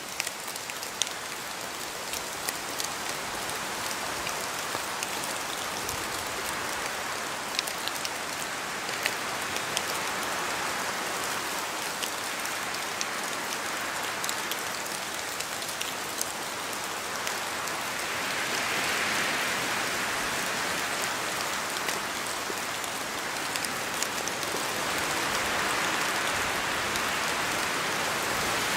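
Steady rain in a forest, with scattered larger drops falling from the trees as sharp ticks. The rush swells twice in the second half.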